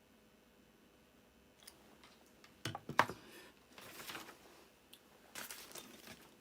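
Handling noises on a workbench: a few sharp clicks and knocks, the loudest about halfway through, and short rustling as small parts and tools are picked up and set down.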